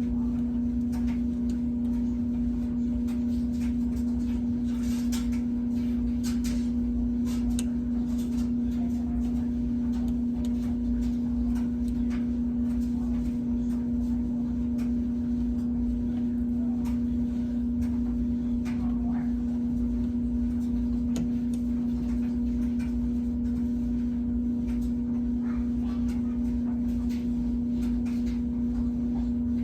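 A steady, even hum on one low pitch, with faint scattered clicks and ticks over it.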